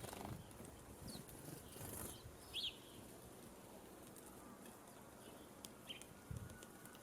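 Sparrows at a feeder giving a few faint, short high chirps, scattered about a second or more apart, with a soft low thump near the end.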